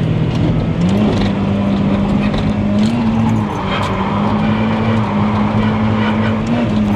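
A drift car's engine running hard at high revs, its note stepping up about a second in and then holding nearly steady, with a couple of brief dips.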